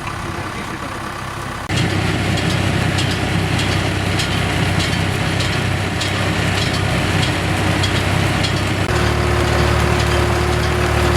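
Tractor engine and pruning round baler running. About two seconds in the sound steps up sharply louder as the machine is set to work, with a quick regular ticking over it. About nine seconds in the engine note shifts to a steadier hum.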